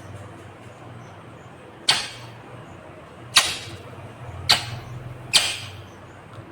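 Indian ringneck parakeet giving four short, harsh screeches, each sudden and fading quickly, spaced about a second apart.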